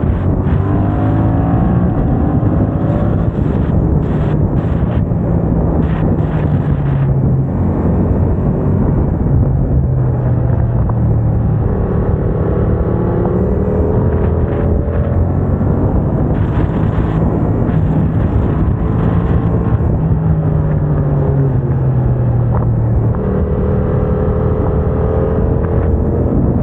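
Yamaha MT-07's parallel-twin engine through a MIVV aftermarket exhaust, accelerating hard while riding. The pitch climbs for a few seconds and breaks at each upshift, about three times, with wind rushing over the microphone throughout.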